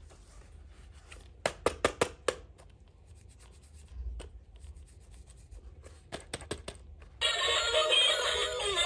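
Small plastic toy pieces clicking and tapping in quick clusters of sharp clicks. About seven seconds in, music with synthetic-sounding singing starts suddenly and carries on.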